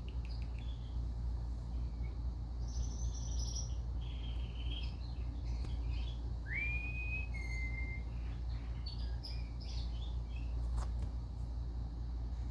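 Indian ringneck parakeets chirping and whistling, with short scattered chirps and one whistle about halfway through that rises and is held briefly, over a steady low hum.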